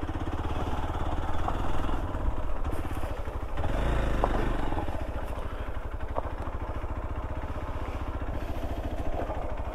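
Motorcycle engine running steadily at idle, swelling briefly about four seconds in.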